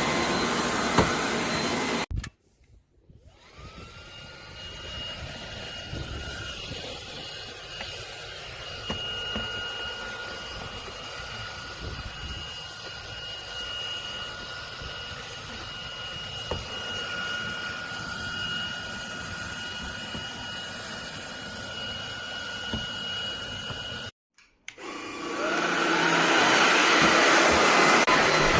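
SunSare X11 cordless stick vacuum running. It cuts out abruptly about two seconds in and comes back quieter with a brief rising whine. It runs steadily with a high whine, cuts out again near the end, and returns louder.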